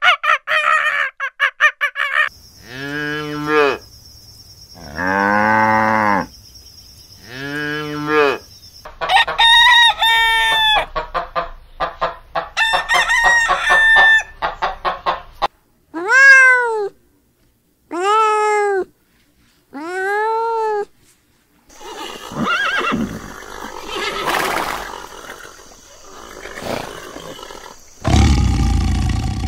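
Farm chickens: a rooster crowing again and again, with dense clucking in the middle. It is preceded by a brief run of fast rising gibbon whoops at the start and followed by noisier, lower sounds in the last few seconds.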